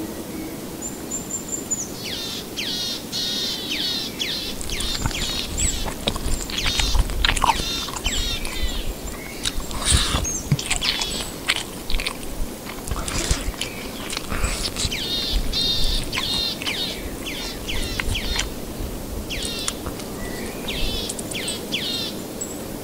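Forest birds calling in quick series of short, high, falling chirps, one call after another, over a low steady rumble.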